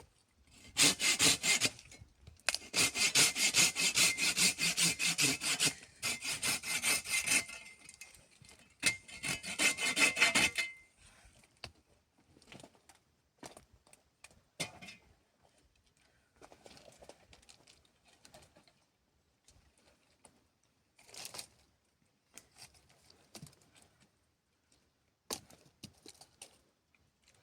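Rapid, loud rasping strokes, as of something being scraped back and forth, for about ten seconds with two short breaks. Then scattered light knocks and clicks.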